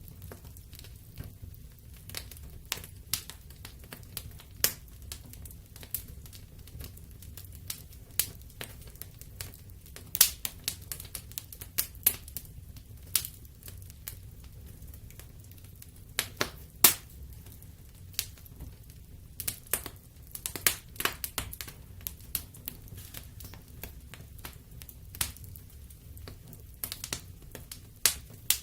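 Wood fire of burning logs crackling and popping irregularly, with sharp snaps scattered over a low steady rumble of the flames; the loudest pops come around ten, seventeen and twenty-one seconds in.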